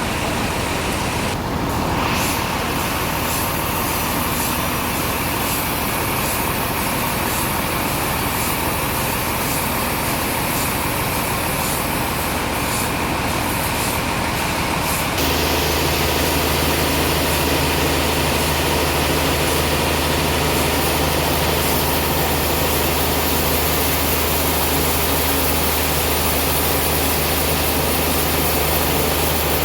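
Sawmill machinery running steadily. About halfway through the sound changes abruptly to a deeper, even hum with more hiss on top, and it stays that way to the end.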